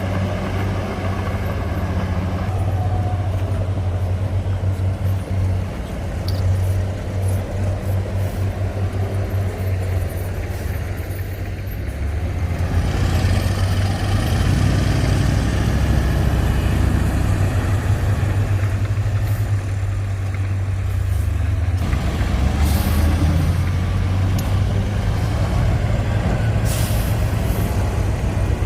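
Heavy diesel engines of a bulldozer and dump truck at work, a low throbbing engine note that rises and falls with load. Air hisses for several seconds around the middle, with shorter hisses near the end.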